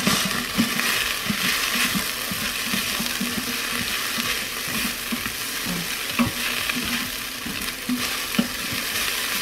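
Ground beef with diced onion and green peppers sizzling as it browns in an Instant Pot's stainless steel inner pot, while a spoon stirs and scrapes through it. There are a couple of sharp knocks against the pot in the second half.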